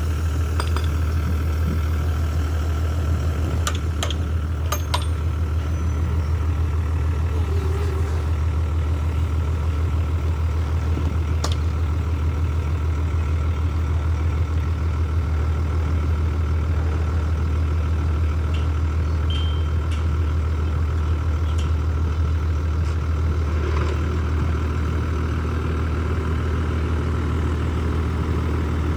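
Heavy diesel engine running steadily at an even speed, a deep drone with a few light clicks early on.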